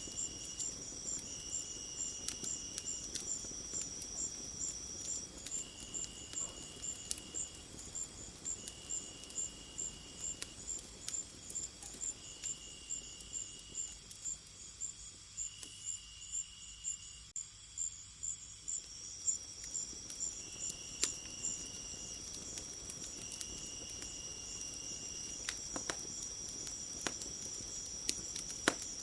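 Crickets and other insects calling together: a quick, even chirping about two pulses a second, a steady high trill that drops out for a while in the middle and returns, and a lower call repeating in phrases of about two seconds. Scattered faint crackles, typical of a wood fire, sound over them.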